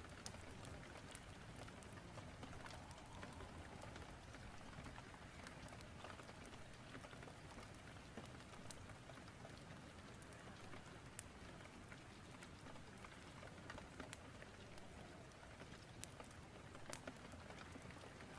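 Faint rain-storm ambience: a steady hiss of rain with scattered sharp ticks and crackles.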